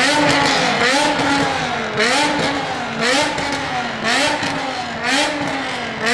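BMW M5 E60's S85 5.0-litre naturally aspirated V10 being revved in short throttle blips, about one a second, its exhaust note rising quickly and falling back each time.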